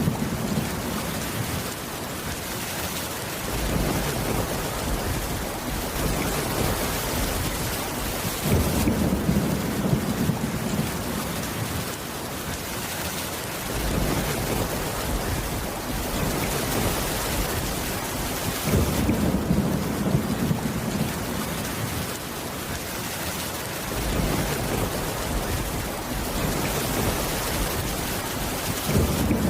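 Steady heavy rain with low rolling thunder that swells in and fades out every several seconds.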